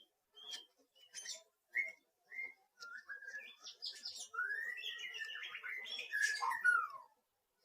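A small bird chirping and twittering in a run of short, quick calls that slide up and down in pitch, mixed with a few sharp clicks, growing busier in the second half and stopping just before the end.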